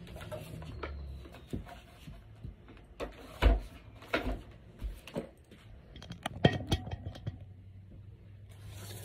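Irregular knocks, clicks and rattles of plastic parts and packaging being handled during the unboxing of a carpet cleaner, the loudest knocks about three and a half and six and a half seconds in.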